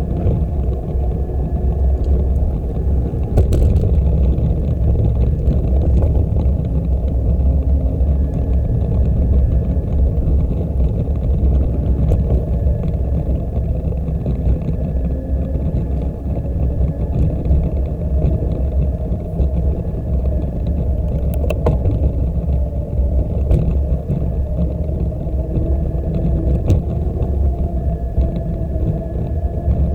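Steady low rumble of wind buffeting and tyre noise on a bicycle-mounted camera's microphone while riding, with a few light clicks.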